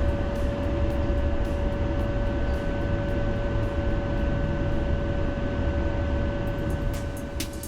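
Tram running, heard from inside the car: a steady low rumble with a constant whine and scattered faint clicks, easing off slightly near the end.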